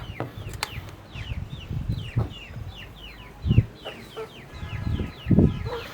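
Chicks peeping: a run of short, high, falling cheeps, several a second, as they come to scattered grain. A few dull thumps are heard, the loudest near the end.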